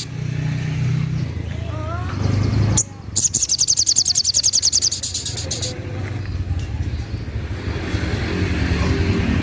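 Sogok ontong sunbird giving one rapid, high, chattering trill of about two and a half seconds in the middle, over a steady low rumble like traffic.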